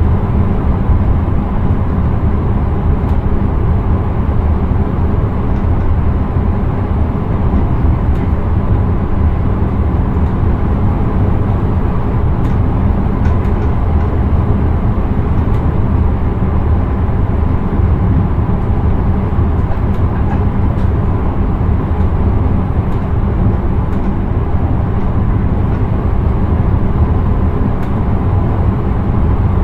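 Passenger train running steadily at speed, heard from the driver's cab: a continuous low rumble of wheels on rail, with a few faint clicks.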